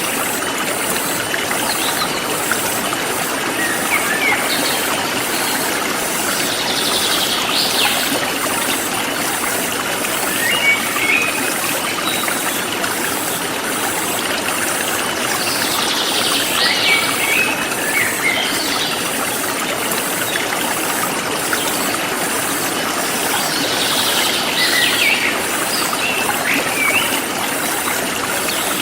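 A forest stream flowing steadily, with birds chirping in short groups of calls that come back about every eight seconds, over a high pulsing insect chorus.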